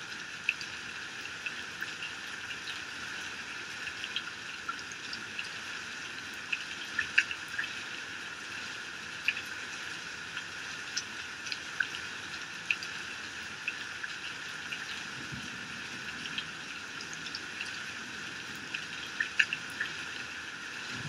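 Heavy rain falling steadily: a constant hiss with many sharp drop splats close by.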